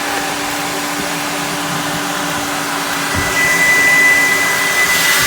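JE Adams turbo car-wash vacuum running with a steady rush of air and a high, piercing whistle, called extremely horrible whistling. The whistle drops away near the start and returns strongly a little past halfway.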